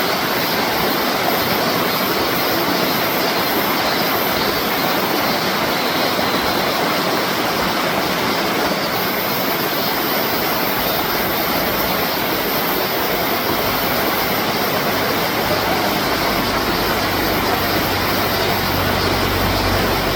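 Mountain stream water rushing and cascading over rocks, a loud, steady roar of water. A low rumble joins in during the last few seconds.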